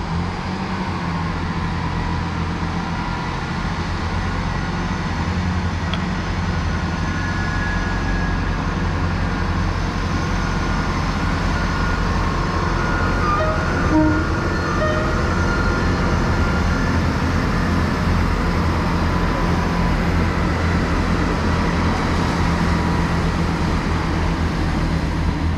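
Class 158 diesel multiple unit's underfloor diesel engines running with a steady low throb, slowly growing a little louder.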